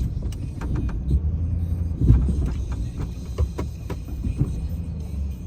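Snow-pushing machine's engine running with a low, steady rumble, with scattered knocks and rattles through it; the loudest knock comes about two seconds in.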